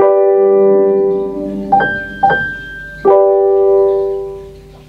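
Smart speakers' start-up chimes as they finish booting: the held last note of one chime rings out, then a second chime of two short notes and a longer held note that slowly fades. The uploader takes the second chime for the Sony LF-S50G's.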